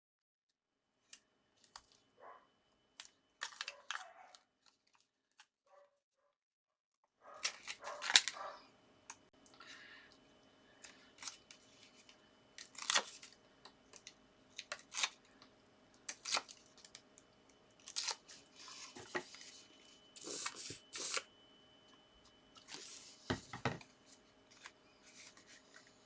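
Paper and card being handled on a craft table: irregular light rustles, taps and scrapes, starting after several seconds of near silence.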